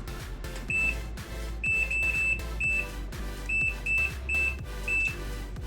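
Washing machine control panel beeping: about eight short, identical high electronic beeps at uneven intervals, as buttons are pressed to run the drain test. Background music plays underneath.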